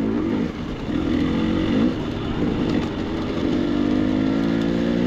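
Dirt bike engine pulling under throttle while riding, its pitch climbing, dropping briefly about two seconds in, then climbing again.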